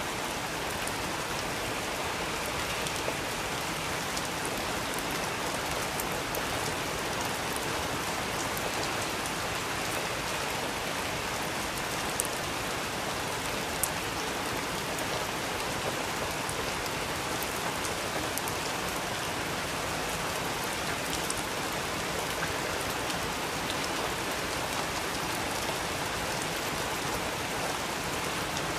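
Steady rain falling, an even hiss with a few sharper ticks scattered through it.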